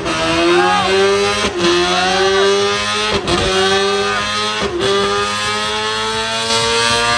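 Sportbike engine at full throttle on a dyno, pulling up through the gears. There are four quick breaks about a second and a half apart where it shifts up, and its pitch climbs steadily in between.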